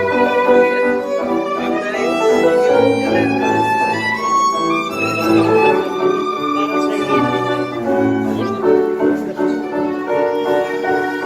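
Live tango band playing, with a violin carrying the melody over piano and a line of separate low bass notes.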